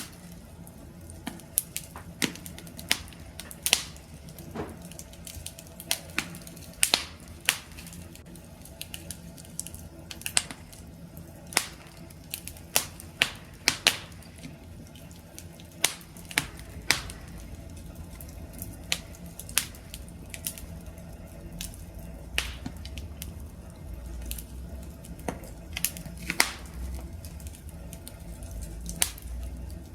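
Wood campfire crackling: irregular sharp pops and snaps from the burning wood over a steady low hiss. About halfway through, a low rumble of the flames grows louder.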